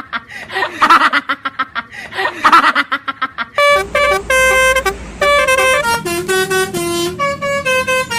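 Multi-tone Basuri telolet bus horn playing a tune of held notes that step from pitch to pitch, from about a third of the way in. Before it come quick, rapidly repeated pitched pulses.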